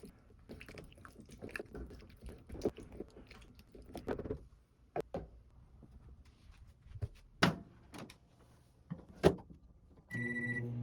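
Kitchen handling: scattered clicks, knocks and rustles, with two sharper knocks in the second half. Near the end a microwave oven gives one short beep and starts running with a steady low hum.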